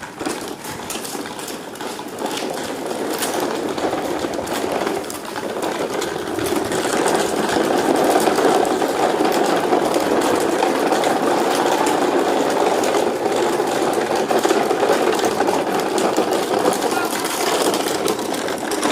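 A motor running steadily, growing louder about six seconds in, with frequent small clicks throughout.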